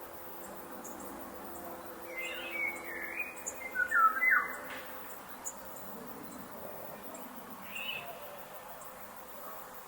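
Forest ambience with birds calling: a run of chirps and warbling notes about two seconds in, the loudest around four seconds, then a single short call near eight seconds, over a soft steady background hiss.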